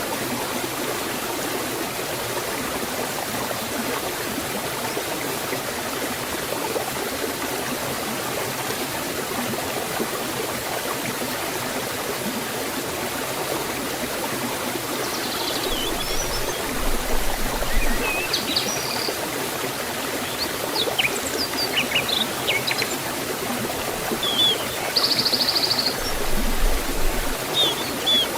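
Forest waterfall and stream water rushing steadily. Birds chirp and twitter in short calls over it from about halfway through.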